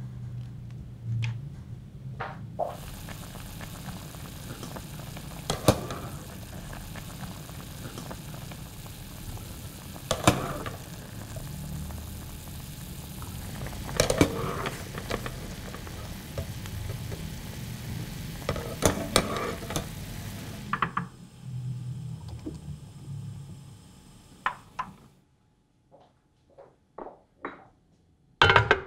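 Chili sambal sizzling as it fries in a pan, with the occasional sharp clink of stirring; the sizzle starts a few seconds in and stops about three quarters of the way through. A few light knocks follow, and a metal clank near the end as a cast-iron grill pan is set on a gas stove.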